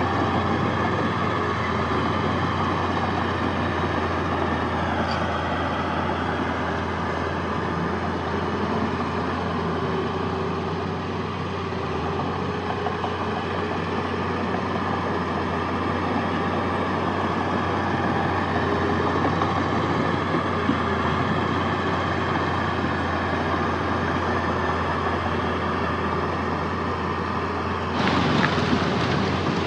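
Heavy diesel earthmoving machinery running steadily, a deep continuous engine drone, turning louder and brighter near the end.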